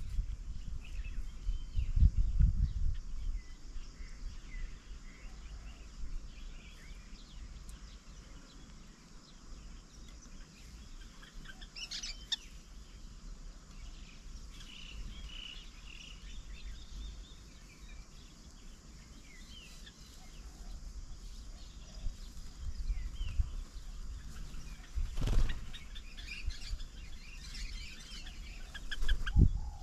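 Small birds chirping and calling, many short scattered calls with a busier flurry about twelve seconds in and again near the end. A few brief low rumbles sound near the start, about 25 seconds in and just before the end.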